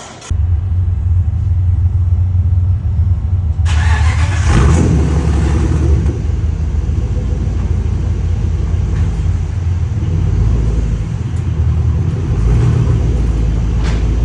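Ram pickup's exhaust with the muffler deleted, running with a deep low rumble. It revs up once about four seconds in, then settles back to a steady idle.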